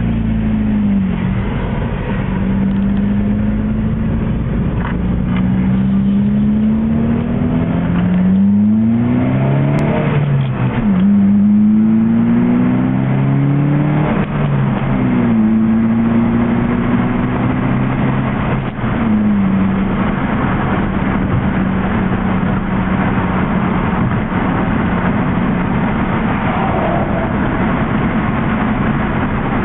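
2003 Ford Focus engine heard from inside the cabin, pulling up through the gears: its pitch climbs and drops back several times, then holds steady at cruise from about two-thirds of the way in.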